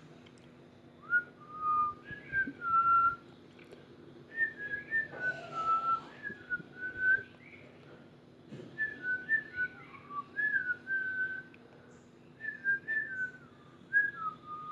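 Someone whistling a wandering melody in four short phrases with brief pauses between them, a single clear tone sliding up and down.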